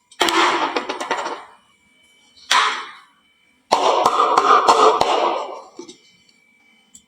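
Marbles rolling and clattering down a wooden marble-run slope, in three runs of rattling with sharp clicks: one lasting about a second near the start, a short one about two and a half seconds in, and a longer one of about two seconds starting a little before four seconds in.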